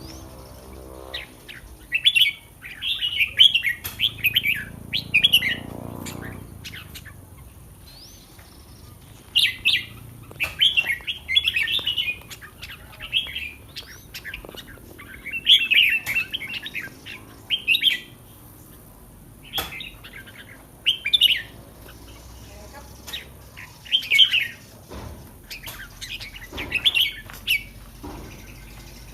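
Red-whiskered bulbul singing: short, bright, warbling phrases of about one to two seconds, repeated every few seconds.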